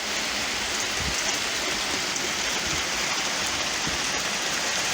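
Hail of at least quarter-inch stones pelting down hard: a dense, steady hiss of countless small strikes.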